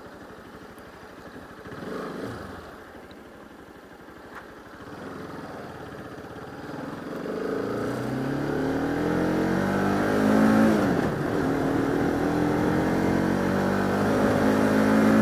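Bajaj Pulsar RS200's single-cylinder engine idling, then pulling away: the revs climb from about five seconds in, dip briefly at a gear change a little past halfway, and climb again.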